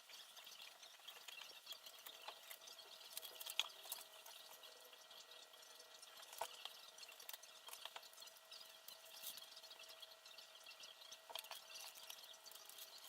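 Faint, scattered small clicks and ticks from small parts and tools being handled during assembly, over a quiet hiss and a faint steady hum.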